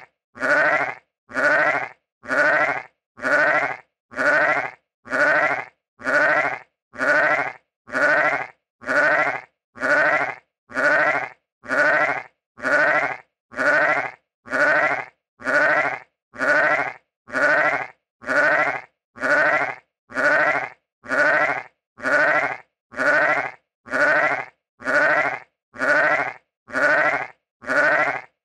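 Sheep bleating: the same short bleat repeats evenly about once a second, with silence between each call.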